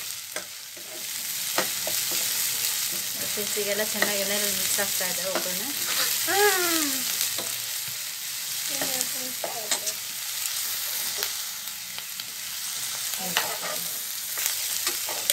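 Chopped onions, green chillies and ginger-garlic paste sizzling in hot oil in a nonstick kadai, frying off the paste's raw smell. A steel spatula stirs them, with short clicks and scrapes against the pan. A few faint pitched calls sound in the background.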